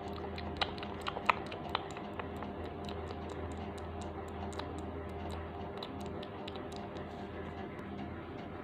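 Light, irregular clicks over a steady low hum, with a few louder clicks in the first two seconds.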